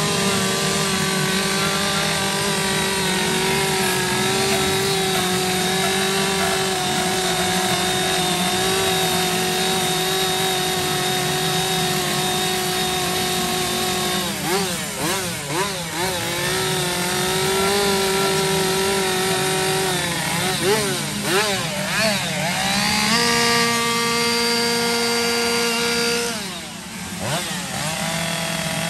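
Chainsaws running steadily, their engine pitch stepping up and down, with quick rev swings about halfway through and again a few seconds later, as in chainsaw carving.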